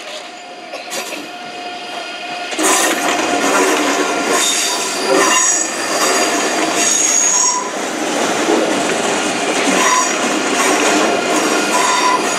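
ICE 3 high-speed electric train running slowly past close by on curved tracks, with several high squealing tones that come and go. It gets much louder about two and a half seconds in as the train reaches the microphone.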